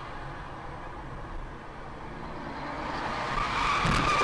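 Steady road and engine noise of a car driving. It grows louder in the last second or so, with a high steady tone and the first sharp knocks near the end.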